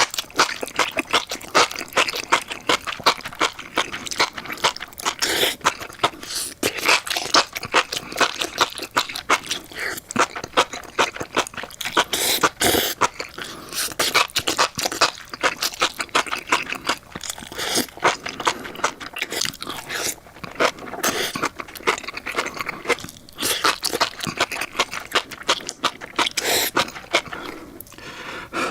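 Close-miked chewing of spicy enoki mushrooms: a dense, continuous run of wet crunching and clicking mouth sounds.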